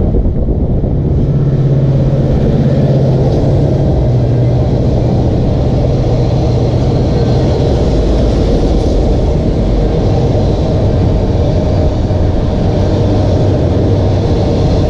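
Union Pacific mixed freight train rolling past close by: a loud, steady rumble of wheels on rail, with a low drone early on.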